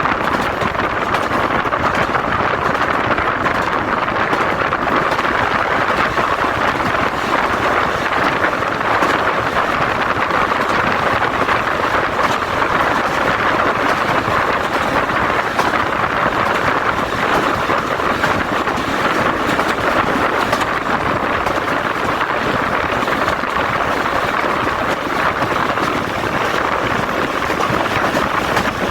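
Jaffar Express passenger train running along the track, heard from on board as a steady, unbroken rush of running noise.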